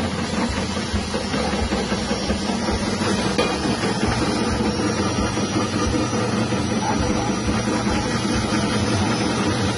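Electric chip slicing machine, driven by a small 180-watt electric motor, running steadily with a continuous mechanical hum and whir.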